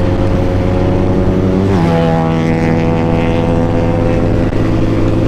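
Benelli motorcycle engine running at a steady speed, dropping to a lower steady pitch about two seconds in.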